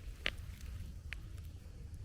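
Footsteps on a forest path: two short, light crunches about a second apart over a low, steady rumble.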